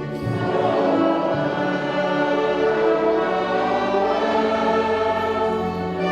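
Choir singing sustained chords with orchestral accompaniment.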